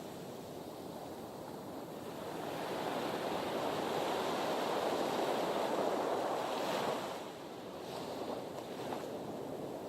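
Sea waves washing against a harbour breakwater. The surf swells for several seconds from about a quarter of the way in, then falls back abruptly, followed by a few small splashes.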